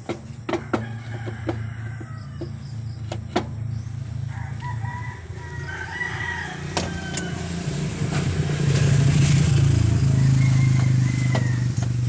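A rooster crowing about four and a half seconds in and briefly again near the end, over the steady hum of an engine running that grows louder from about eight seconds in. A few sharp clicks and knocks come in the first second or so.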